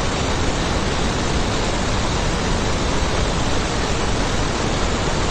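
A steady, even rushing hiss with no pitch or rhythm.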